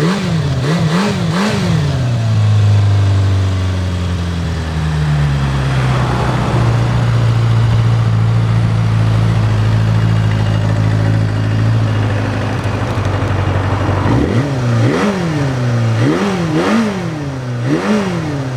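Kawasaki Zephyr 400's air-cooled inline-four engine being blipped about three times, then settling to a steady idle for around twelve seconds, then blipped about four more times near the end.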